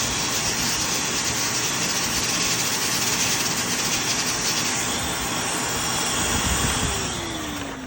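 Blow dryer blowing steadily. About seven seconds in it is switched off, and its motor whine falls in pitch as it spins down.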